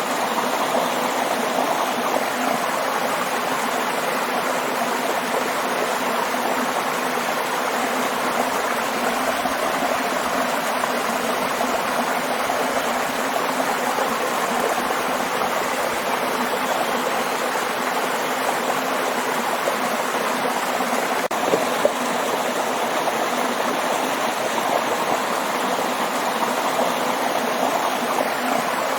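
Waterfall: a steady, unbroken rush of falling water, with one brief click about three quarters of the way through.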